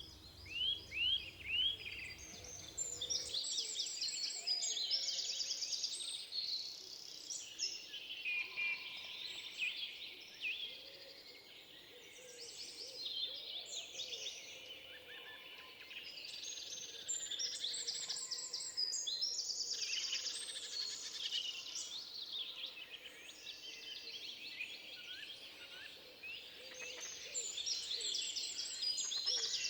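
Several songbirds singing over one another in a forest chorus: quick high chirps and trills that overlap and come in waves, with short lulls between. A low hum under the start stops about three seconds in.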